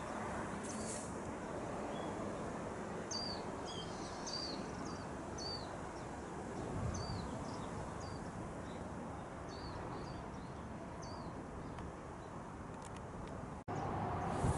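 A small bird chirping, about a dozen short high calls that each dip in pitch, scattered through the middle of the clip over a steady outdoor rushing noise. The sound drops out briefly near the end.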